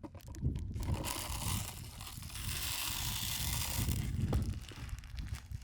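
Bird seed pouring into a bird feeder, a dry rushing hiss lasting about three seconds, with clicks and handling noise from the feeder around it.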